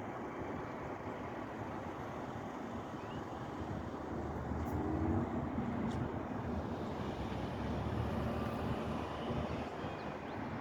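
Freight train rolling past, a steady rumble of wheels on rail that swells about four seconds in.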